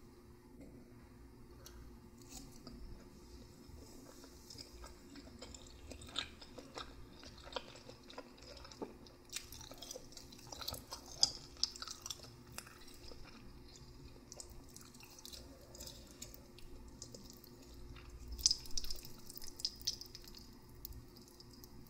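Close-miked chewing of instant noodles, with soft irregular wet mouth clicks and smacks that come in clusters and grow busier around halfway through and again near the end.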